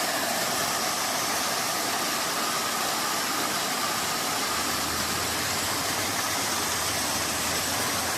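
Steady rushing water of a mountain creek, an even hiss with no breaks.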